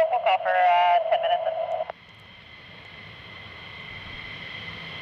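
Airband radio scanner carrying a short voice transmission, thin and hissy through the radio's speaker, which cuts off abruptly about two seconds in. After it comes a low, even rushing noise that slowly grows louder.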